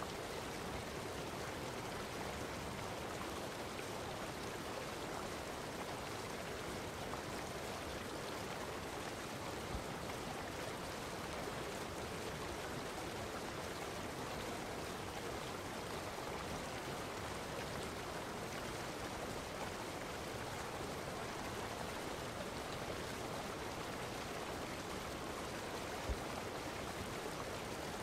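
Steady, even rushing of running water, with two faint low knocks, one about ten seconds in and one near the end.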